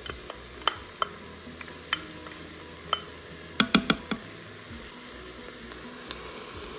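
Diced onions and peppers sizzling in an Instant Pot on sauté, with scattered light taps of a spatula against a small cup and the pot as minced garlic is scraped in. A quick run of four or five louder knocks comes about halfway through.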